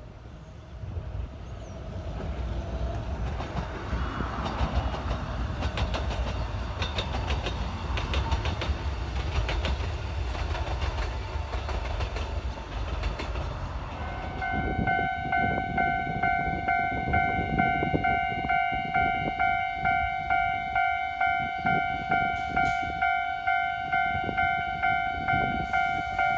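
Running sound of a narrow-gauge electric train with nose-suspended traction motors: a low rumble with a rising motor whine and rail-joint clicks. About halfway through this gives way to a Japanese level crossing's electronic warning bell ringing steadily, about three dings every two seconds.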